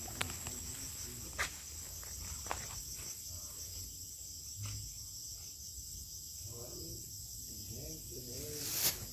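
Crickets and other night insects trilling steadily in a high, continuous chorus, with a few sharp clicks scattered through, the loudest near the end. Faint low voices come in during the second half.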